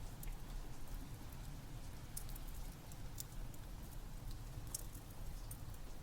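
Steady rain with a crackling wood fire: irregular sharp pops and crackles over an even, low rumble.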